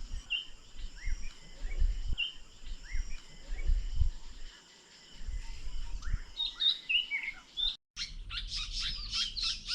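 Birds chirping: short calls repeating about once a second, then, after a brief break near the end, a denser run of chirps, over a few low bumps.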